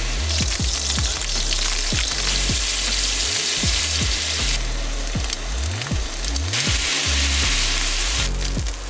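Food sizzling in a hot pan, a loud frying hiss that cuts in and out several times, over background music with a steady bass beat.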